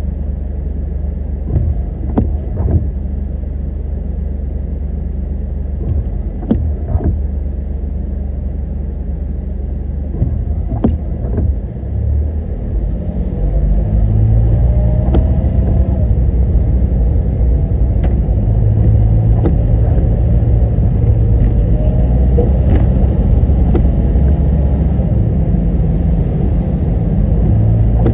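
Car driving, a steady low rumble of engine and road noise with occasional sharp clicks; it grows louder about halfway through as the car speeds up.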